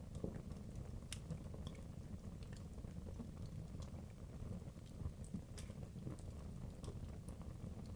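Wood logs burning in a fireplace: a low, steady rumble of flame with scattered sharp crackles and pops, the loudest about a second in and another around five and a half seconds.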